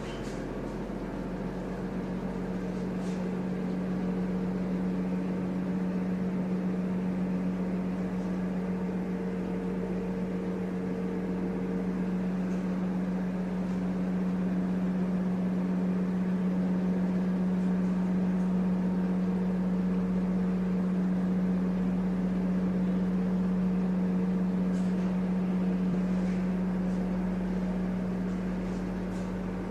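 Steady machine hum: a constant low drone over an even hiss, unbroken throughout.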